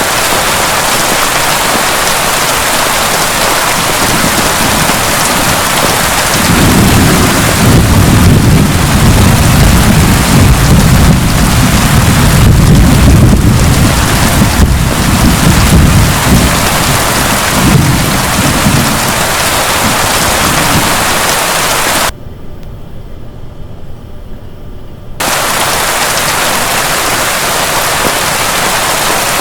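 Heavy steady rain with a long rolling rumble of thunder building about six seconds in and fading out around twenty seconds. Near the end the rain abruptly drops to a muffled hush for about three seconds, then comes back at full strength.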